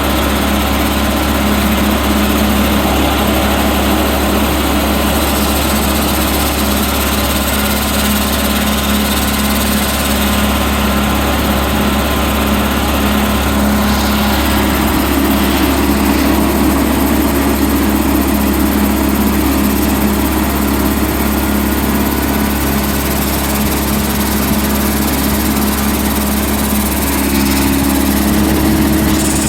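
A small engine running steadily at one speed, with no change in pitch or load.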